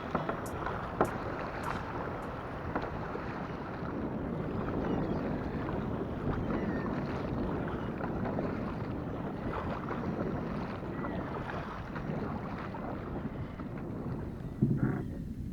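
Sea water splashing and lapping against a kayak's hull as it moves along, with wind on the microphone; a few light knocks in the first couple of seconds.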